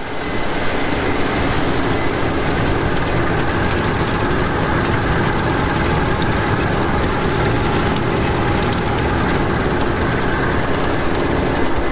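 Combine harvester running steadily while cutting wheat: a dense, even mechanical noise of engine and machinery with a few faint held tones.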